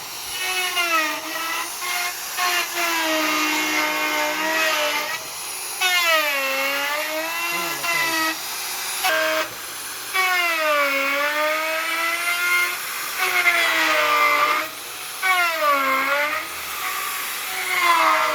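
Electric hand planer cutting wood in several passes. Its motor whine sags in pitch each time the blades bite into the board and climbs back between cuts.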